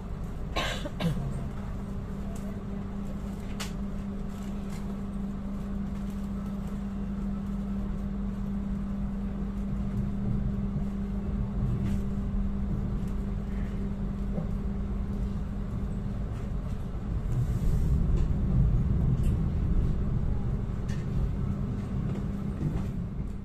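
Inside a passenger train coach pulling out of a station: a steady hum over the low rumble of the wheels on the rails, which grows louder toward the end as the train gathers speed. A few sharp clicks sound early on and in the middle.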